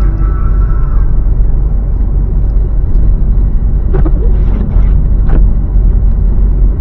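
Car driving, heard from inside the cabin: a steady, loud low rumble of engine and road noise, with a couple of short knocks in the second half.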